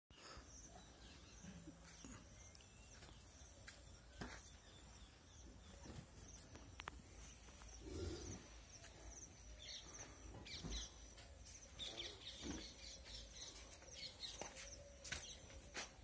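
Quiet ambience of small birds chirping in short repeated trills, over a low steady rumble with scattered faint clicks.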